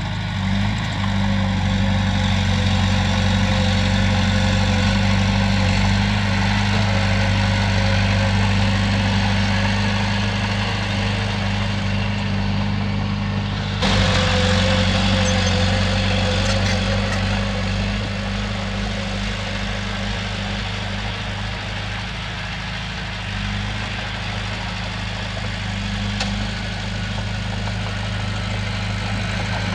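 Heavy diesel engine of a bulldozer running steadily at work, with one sharp knock about halfway through.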